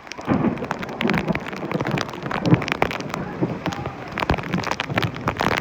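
Heavy thunderstorm rain falling, with many drops striking close to the microphone as sharp taps.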